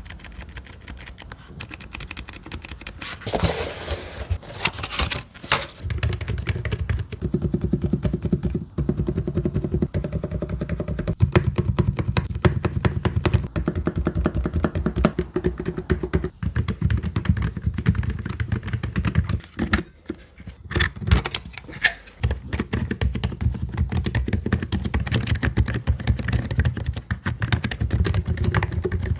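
Rapid typing on a keyboard with low-noise magnetic Hall-effect switches: a dense run of soft key clicks, with a few louder strokes about 3 to 5 seconds in and again about two thirds of the way through.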